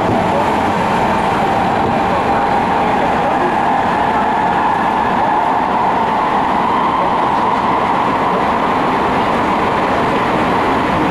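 Tobu 50000-series train running through a subway tunnel, heard from inside the passenger car: a steady, loud rumble of the wheels and running gear, echoing off the tunnel walls, with a mid-pitched drone that swells a little midway.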